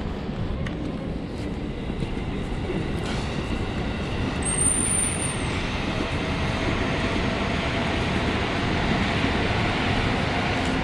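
Electric commuter train running along an elevated railway: a steady rumble with a faint whine that grows over the second half, and a brief high squeal about halfway through.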